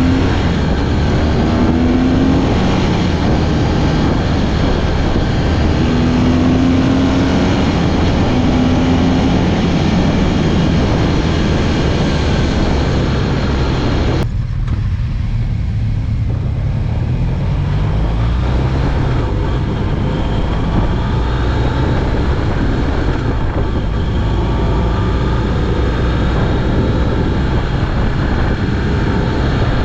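BMW R1200GS Adventure's boxer-twin engine running on the move under heavy wind noise, its pitch rising in short steps in the first few seconds as it accelerates through the gears. About halfway through the wind noise drops away for a couple of seconds while the engine keeps running.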